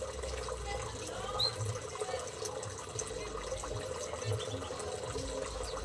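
Water running steadily, with a few short, high bird chirps over it.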